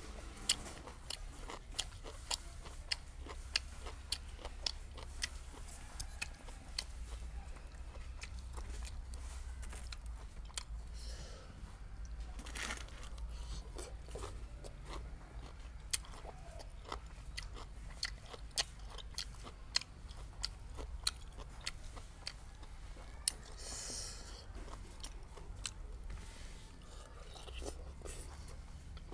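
A person chewing and biting raw, crisp vegetables: irregular sharp crunches and wet chewing throughout.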